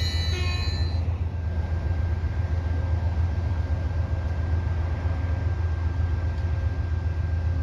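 Train's diesel locomotive running with a steady low rumble and a faint steady whine. A chord of high tones, like the tail of a horn, dies away about a second in.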